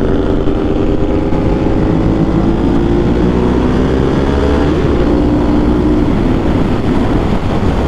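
Ducati 1198's L-twin engine, fitted with a Termignoni exhaust, running loud under way while being ridden. Its note eases slightly lower over the first few seconds, shifts briefly about halfway and then holds steady, with wind rumble on the microphone underneath.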